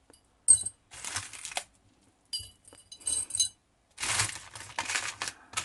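Small glass beads and gems clinking and rattling against one another in a few short bursts, with a brief bright ring on some strikes. About four seconds in, a longer rustling of handled craft materials takes over.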